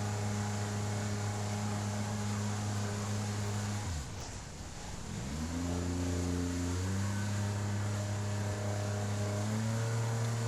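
Outboard jet motor of an inflatable river jet boat running steadily. About four seconds in it drops off the throttle, then climbs back up in steps over the next couple of seconds, dipping briefly again near the end.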